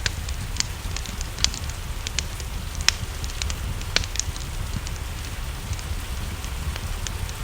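Wood fire crackling, with sharp pops at irregular intervals over a steady low rumble, mixed with the steady hiss of rain.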